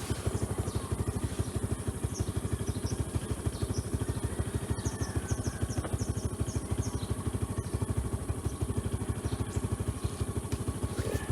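Suzuki Skydrive 125 scooter's single-cylinder four-stroke engine running steadily at a low, even speed, with a regular rapid pulse.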